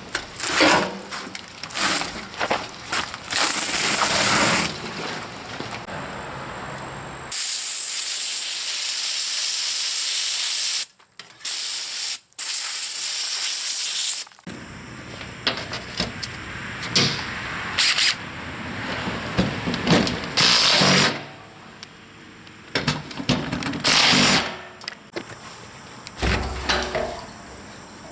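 A pressurised hissing spray runs for about seven seconds, cut twice by brief breaks. Shorter hisses and clattering tool noises come before and after it.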